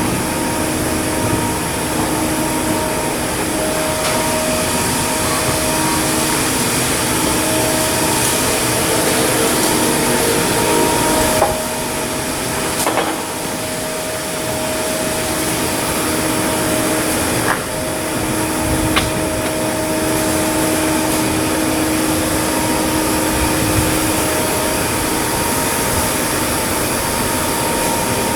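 Steady shipyard machinery noise, a loud continuous rush with a hum at several fixed pitches, broken by a few sharp metallic knocks.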